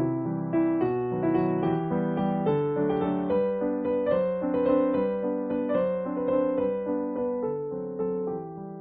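Background piano music, a gentle melody of single notes over sustained lower notes.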